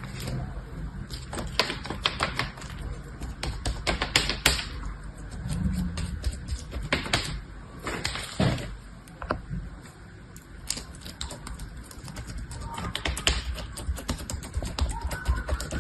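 Small objects being handled up close: irregular sharp clicks and taps, with a couple of brief rustling swishes about halfway through.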